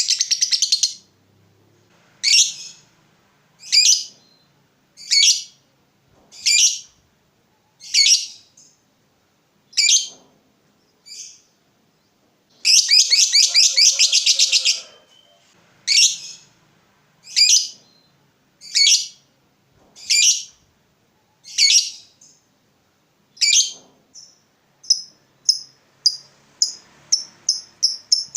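Lovebird calling with high, shrill notes: a fast chattering run at the start, then single calls about every second and a half. About halfway there is a two-second rapid chatter, and near the end the chirps come quicker and closer together.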